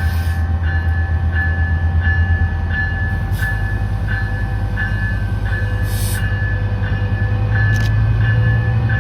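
Diesel passenger locomotive running with a heavy low rumble that shifts about two and a half seconds in and swells near the end, while a bell rings steadily at about two strokes a second.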